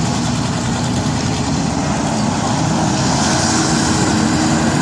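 Pulling tractor's engine running hard under load while dragging the weight-transfer sled, its steady note strengthening about two and a half seconds in.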